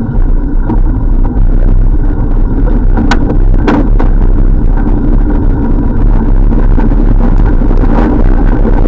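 Loud, steady low rumble of riding noise on a bicycle-mounted camera: wind on the microphone and road noise, with two sharp clicks a little over three seconds in.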